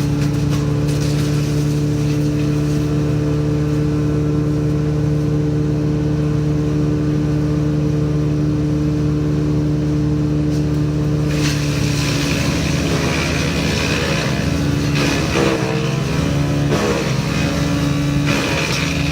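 Woodchipper engine running steadily; about halfway through a harsher grinding noise sets in as material is fed and chipped, and the engine pitch dips briefly under the load a couple of times.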